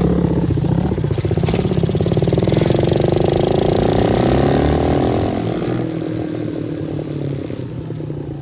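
125cc dirt bike engine running while riding, its pitch rising and falling with the throttle, then getting quieter about five seconds in.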